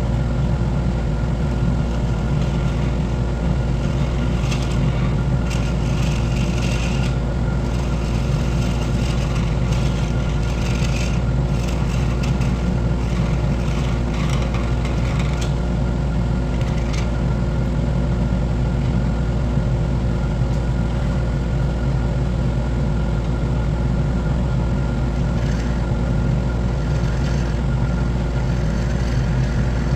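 Wood lathe running steadily with a constant motor hum. For a stretch early on, a tool scrapes against the spinning wood in irregular bursts.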